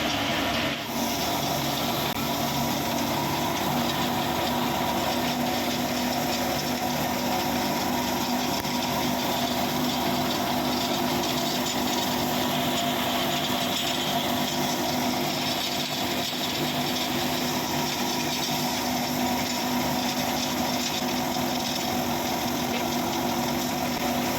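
Mahindra tractor engine driving a thresher, both running steadily with a constant machine drone and rattle.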